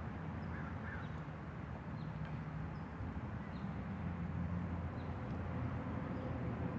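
Outdoor background: a steady low mechanical hum, with a few faint, short high chirps scattered through it.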